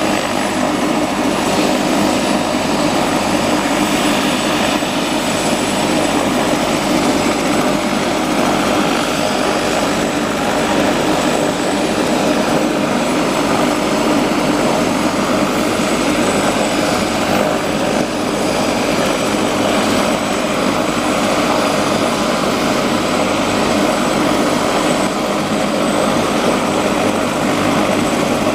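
Turbine helicopter running steadily with its rotor turning after engine start, a thin high turbine whine over the rotor and engine noise.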